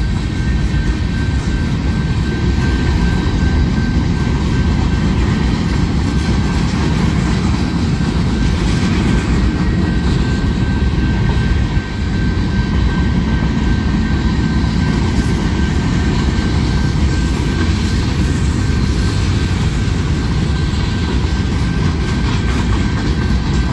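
Manifest freight train's cars rolling past at steady speed: a loud, steady rumble and rattle of wheels on rail. A thin, steady high tone runs over it.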